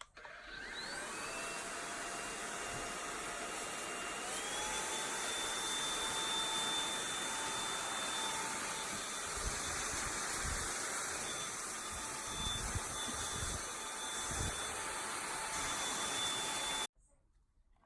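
Samsung POWERbot R7040 robot vacuum running: its suction motor spins up with a rising whine about half a second in, steps up in pitch around four seconds, then runs steadily with a few low thuds, and cuts off suddenly near the end.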